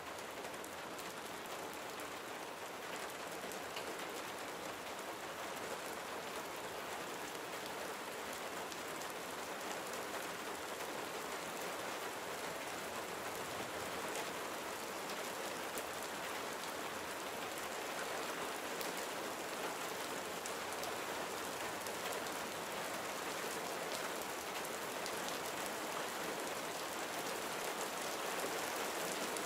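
Gentle rain falling steadily, a dense run of fine drop ticks over an even hiss, growing a little louder over the stretch.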